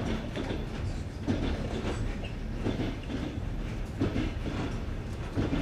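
Passenger train wheels clicking over the joints of jointed (non-welded) rails: a steady rolling rumble broken by a few sharp knocks as the wheelsets pass each rail joint, heard from aboard the train.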